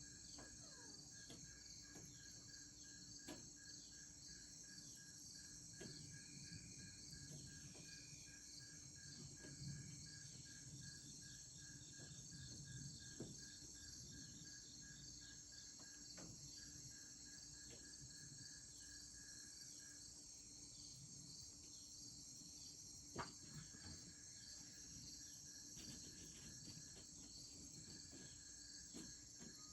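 Faint steady chorus of crickets and other evening insects, with fast pulsing high trills and a slower on-off trill lower down. A faint low rumble of distant thunder comes in a few seconds in and fades by the middle, and there are a few soft clicks.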